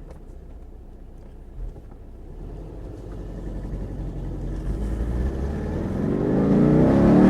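Air-cooled flat-four engine of a 1967 Porsche 912, built out to 2.1 litres, driving under way. It gets steadily louder and climbs in pitch over the last few seconds as the car accelerates.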